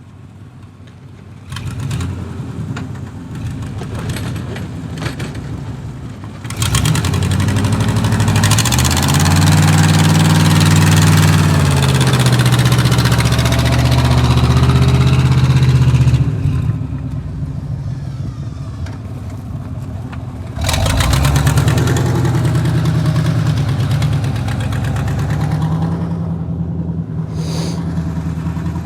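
Vehicle engine running and being revved: it climbs sharply about six seconds in and holds high for about ten seconds, drops back, then revs up again about twenty seconds in and stays up.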